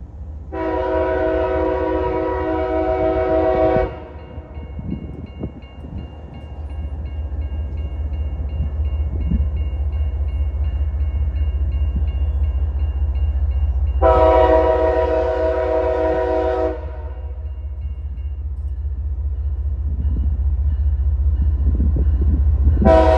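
CSX diesel locomotive sounding its multi-chime air horn in long blasts: one of about three seconds near the start, another about two and a half seconds long midway, and a third starting at the very end. Between the blasts a bell rings about twice a second over the steady low rumble of the passing locomotive and train.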